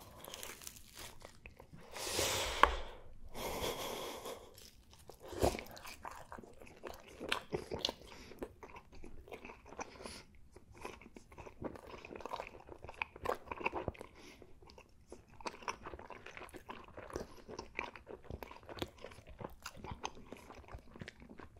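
Close-miked chewing of a crusty pepperoni pizza, with crunches and many short sharp mouth clicks. The loudest part is a rough burst of crunching about two seconds in.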